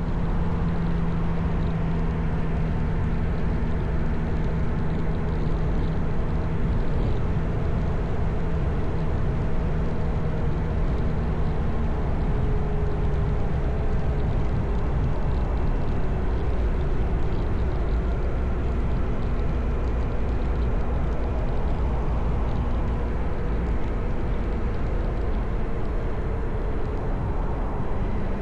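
Motorcycle engine running steadily while riding, with its pitch shifting a little now and then, over a constant rush of wind and road noise.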